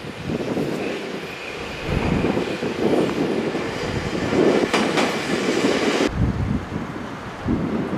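E257 series electric multiple unit running on the rails, its wheels and running gear giving a continuous rumble. The higher part of the sound cuts off abruptly about six seconds in.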